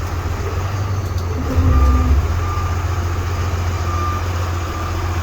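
Cummins diesel engine of a 1999 Freightliner FL50 truck running while the truck drives, with a steady low drone that swells briefly about two seconds in. A few short, faint, high beeps sound like a backup alarm.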